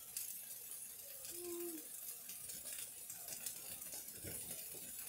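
Faint sizzling of bell-pepper, onion and tofu skewers frying on a griddle, with a few light clicks and knocks from the kitchen.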